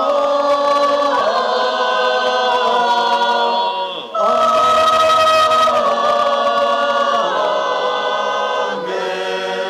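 Unaccompanied church choir singing a litany response in held multi-part chords, in two long phrases with a brief break just before halfway.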